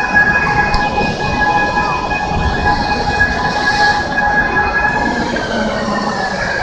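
Overhead travelling crane carrying a Shinkansen car body, running with a steady high whine over a low rumble in a large workshop hall. The whine changes pitch about five seconds in.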